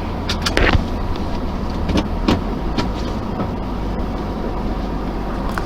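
Steady wind and road rumble from riding an e-bike, with a scattering of sharp clicks and rattles.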